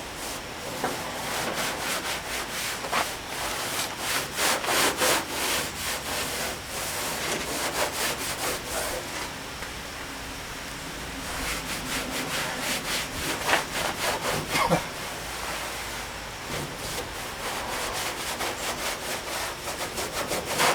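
A cloth rag scrubbed back and forth over the painted steel body panel of a 1959 VW Type 2 single cab pickup, in quick scratchy strokes that come in runs with short pauses. It is wiping off solvent-softened overpaint to uncover the original paint.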